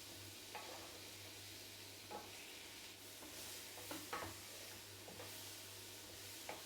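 Sliced chestnut mushrooms sizzling faintly in butter and olive oil in a pan, with a few short scrapes and taps of a utensil as they are stirred.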